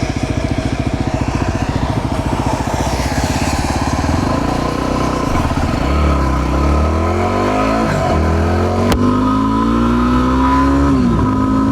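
Yamaha WR250R's single-cylinder four-stroke engine pulling away and accelerating through the gears: a low, chugging engine note at first, then a pitch that climbs and drops back at each upshift, about three times. A single sharp click is heard about nine seconds in.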